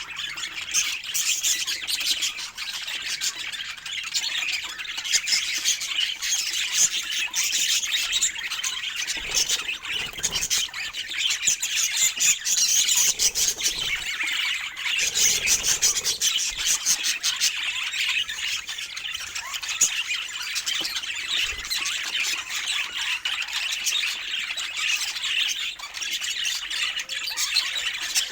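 Pet budgerigars chattering: a continuous stream of fast, high chirps and chatter with no break.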